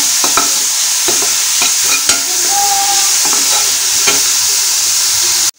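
Chopped onions sizzling in ghee in an aluminium kadai while a metal slotted spoon stirs them, scraping and clicking against the pan. The sound cuts off suddenly just before the end.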